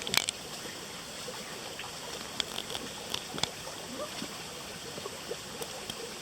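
Steady rush of a small rainforest stream, with a few short sharp clicks and knocks near the start and again a few seconds in.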